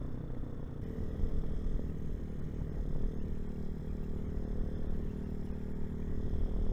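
Hawk 250 motorcycle engine running while riding, with a low wind rumble; the engine note shifts about a second in and again around three seconds.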